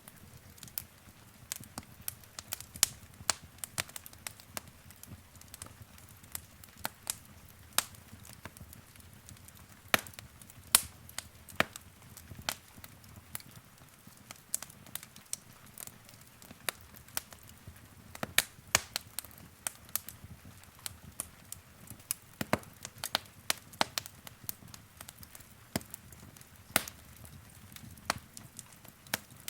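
Wood fire in a fireplace crackling, with irregular sharp pops and snaps over a faint low rumble of the burning logs.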